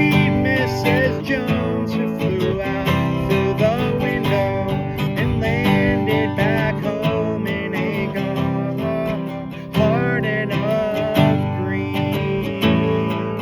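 Acoustic guitar strummed in a steady rhythm, with a voice singing over it: a solo cover of a folk song.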